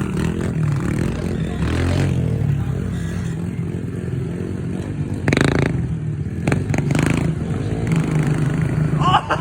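Pit bike engine running steadily at low revs, with clattering scrapes a little after five seconds in and again around seven seconds.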